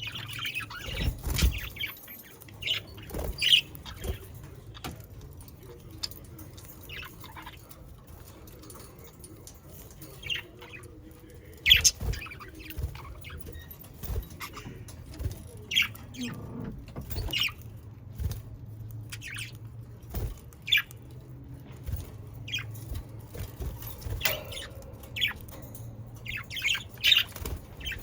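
Budgerigars chirping and chattering in short, scattered calls, busier near the start and again near the end, over a low steady hum.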